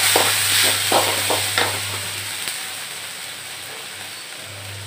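Onions and green chillies sizzling in hot oil in a metal kadhai, with a spatula scraping and stirring through them in the first couple of seconds. The sizzle dies down toward the end.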